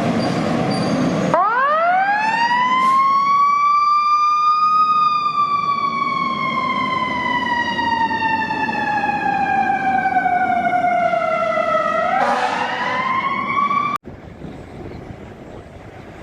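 A mechanical siren winding up sharply, then slowly winding down in pitch over several seconds before winding up again. It cuts off suddenly near the end.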